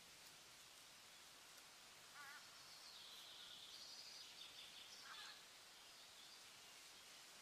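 Faint outdoor nature ambience with a soft high hiss and a few short, wavering bird calls, about two seconds in and again about five seconds in.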